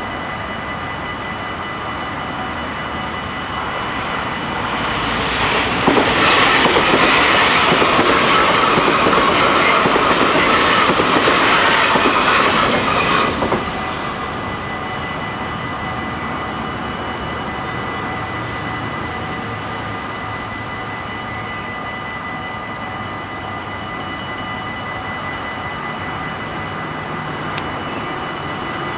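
NS VIRM double-deck electric train passing over the level crossing: its running noise builds from about four seconds in, is loudest from about six to thirteen seconds, then drops off suddenly. Under it, the crossing's warning bells ring steadily and keep ringing after the train has gone.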